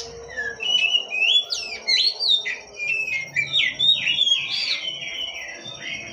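Oriental magpie-robin singing vigorously: a fast, varied run of whistled notes, slurs and short trills that thins out near the end.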